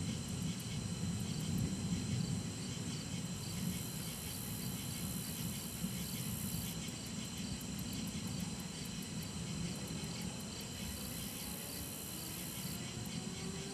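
Low rumble of distant thunder dying away over the first few seconds, under a steady chorus of crickets and other insects. A very high insect buzz comes in twice.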